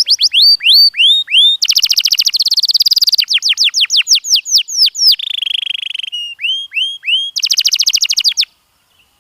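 Domestic canary singing: phrases of rapidly repeated high notes, fast trills alternating with slower rising whistles. The song stops suddenly shortly before the end.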